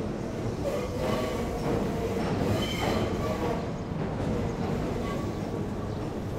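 Tobu line train crossing a steel railway bridge: a steady rumble of wheels on rails, with faint steady tones and a brief higher whine about three seconds in.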